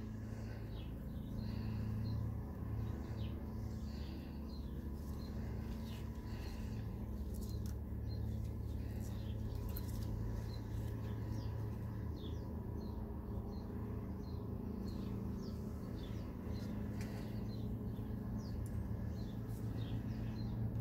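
Small birds chirping in short, high notes again and again, over a steady low hum.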